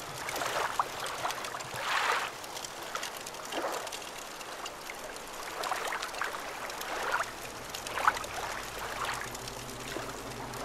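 Water washing and trickling over rocks at the shoreline, a steady rush that swells and ebbs every second or two.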